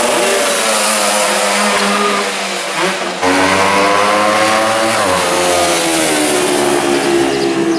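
Racing motorcycle engines at high revs, several bikes overlapping, their pitch rising and falling through acceleration and gear changes. A louder bike comes in suddenly about three seconds in.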